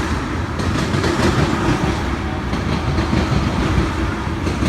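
A train rolling past, a steady loud rumble with the clatter of wheels running over the rails.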